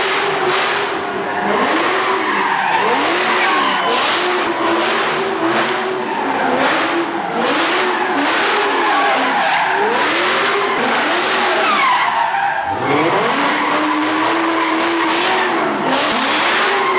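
A car doing donuts or burnouts at a street car meet: tyres squealing and skidding while the engine revs up and down in quick repeated swells. About twelve seconds in the engine drops low and climbs back up.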